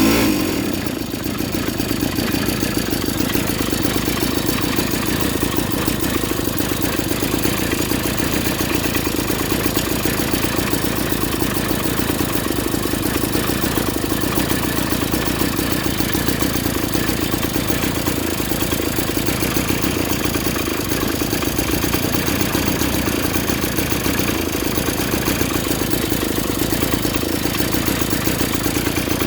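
A 49cc two-stroke pocket bike engine running steadily at idle with a fast, even pulse, after a brief louder surge at the very start.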